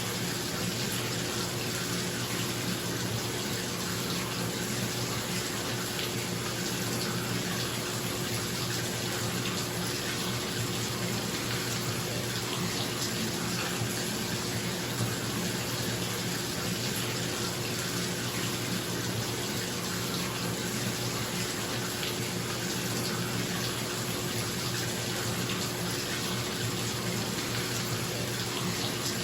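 Bathtub tap running steadily into the tub, a constant splashing rush of water, with a bathroom exhaust fan's steady hum underneath.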